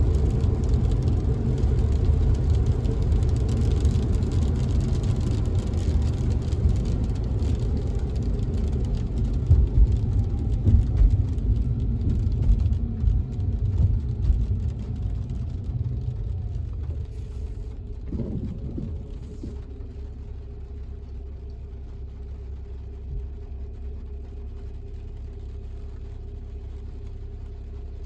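Car driving in the rain, heard from inside the cabin: a low road-and-engine rumble that eases off over a few seconds past the middle as the car slows. It settles into a steady, quieter hum.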